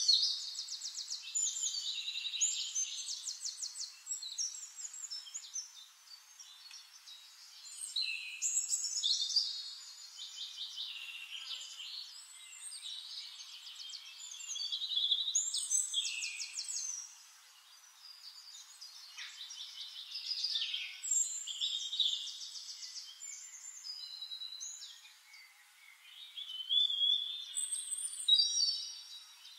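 A songbird singing: phrases of fast trills and warbles a few seconds long, coming again every several seconds.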